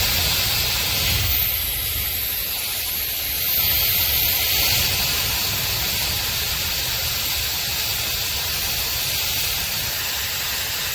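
Shark FlexStyle HD430 hair dryer running, a steady rush of blown air with a faint high motor whine; its level dips a little early on and comes back up a couple of seconds later.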